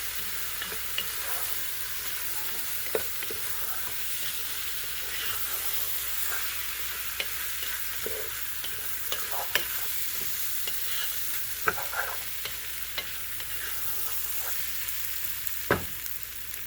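Chicken and sweet rice sizzling in a pot as they are stirred: a steady frying hiss with scattered clicks and scrapes of the utensil against the pot, and a sharper knock near the end.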